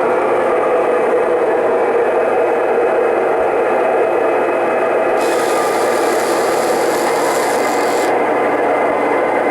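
O scale model train running on the layout's track, heard from a camera riding on the train: a steady, loud rolling rumble and rubbing of wheels on rail. A higher hiss joins for about three seconds in the middle.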